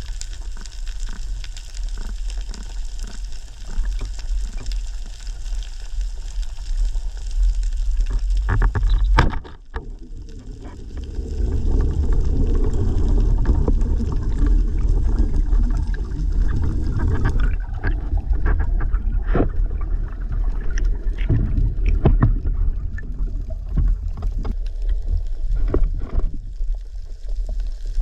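Underwater sound through an action camera's housing: a steady crackle of many small clicks, then, after a brief dip about nine seconds in, louder low rushing and bubbling water with scattered knocks.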